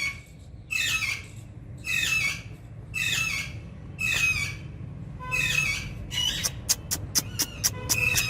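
Indian ringneck parakeet screeching: five harsh squawks about a second apart, then a quick run of short, sharp chirps near the end.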